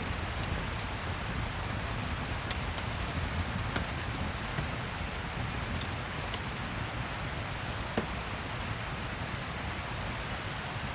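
Steady rain with a low rumble underneath, and a few scattered sharp clicks, the most distinct one about eight seconds in.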